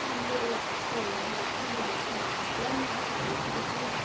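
Steady rushing hiss of a storm, even throughout, with faint short pitched sounds low underneath.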